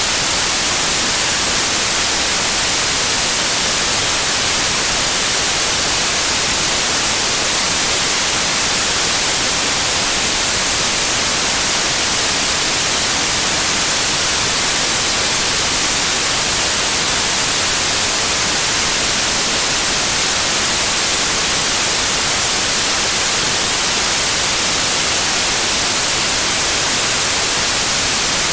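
Steady, unchanging generated noise with a bright hiss that is strongest in the highs.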